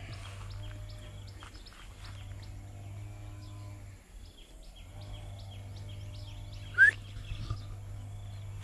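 Birds chirping outdoors: a quick, even series of high chirps about three a second over a steady low hum, with one louder, short call sliding down in pitch about seven seconds in.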